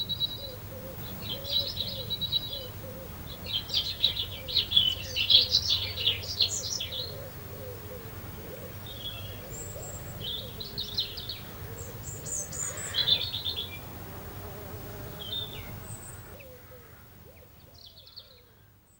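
Garden birds chirping and singing in short repeated phrases, the sound fading out near the end.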